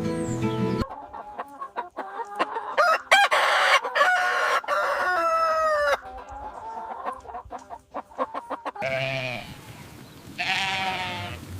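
Music cuts off under a second in, then a rooster crows once in a long call. In the last few seconds sheep bleat twice, the second bleat running on past the end.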